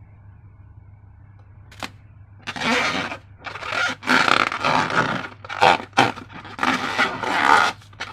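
Slime and rubber balloons being handled: a single click about two seconds in, then repeated rasping, scraping strokes.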